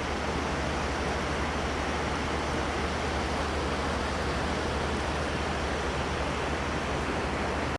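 Steady rush of flowing river water, an even noise with a low rumble, breaking off suddenly at the end.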